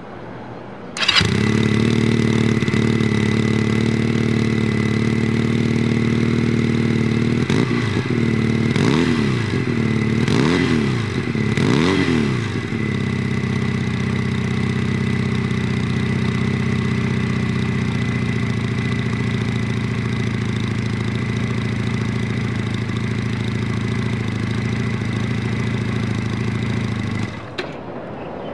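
GPX Legend 250 Twin's 250 cc two-cylinder engine, heard at its exhaust. It starts about a second in and idles, is revved three times in quick succession, settles back to idle and is switched off near the end. The exhaust note is rather loud.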